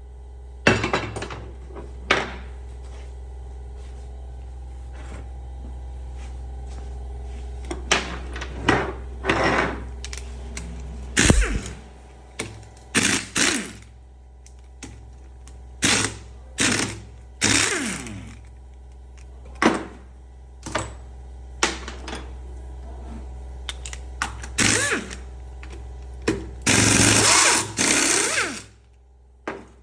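Workshop tool sounds while a Fiat Siena manual gearbox is taken apart: irregular metal knocks, clinks and short scraping clatters, with a longer burst of about two seconds near the end, under a steady low hum.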